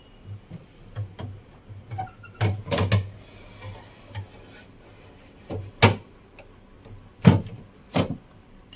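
Items being put away in a fridge-freezer: plastic containers set down and slid into place, a scraping slide and a string of knocks, the sharpest three in the second half.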